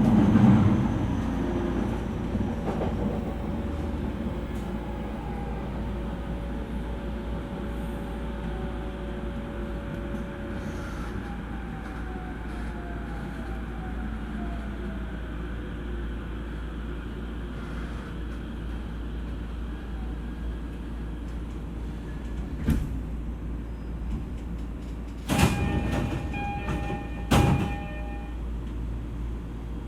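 Interior running sound of an E231-series EMU slowing down: the motor whine falls in pitch as the train brakes to a stop. Near the end come sharp door clunks with a chime tone, typical of the doors opening at the station.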